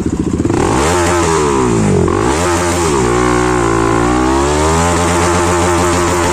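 Bajaj Pulsar NS200's single-cylinder engine running loud through an aftermarket Akrapovic exhaust, revving: its pitch climbs about half a second in, drops back near two seconds, then climbs again and holds.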